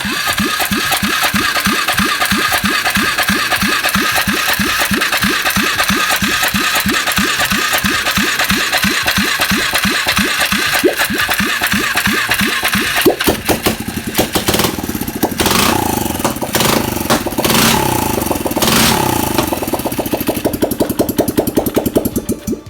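Polaris Scrambler 500 4x4's single-cylinder four-stroke engine catching and running on choke, its first start after a top-end rebuild. It fires evenly for about thirteen seconds, then runs less evenly with a few changes in engine speed.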